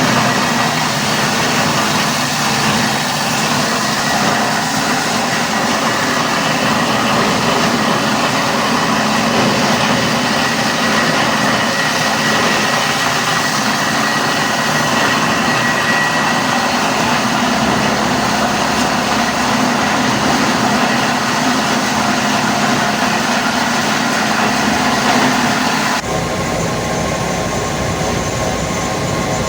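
Loud, steady running of factory machinery in a plastic recycling plant, with a dense rumble and clatter. The sound changes abruptly near the end, to a thinner machine noise.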